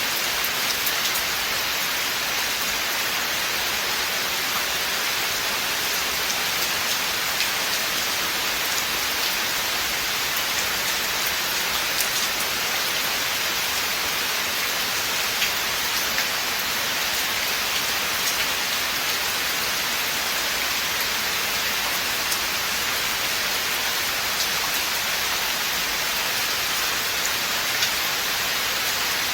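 Steady rain falling in a forest, an even hiss with scattered individual drops ticking on leaves and surfaces.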